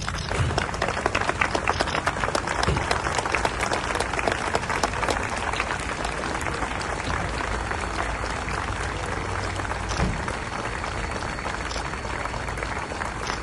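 A crowd applauding: a long round of many hands clapping that starts suddenly and is loudest over the first few seconds, then goes on a little softer.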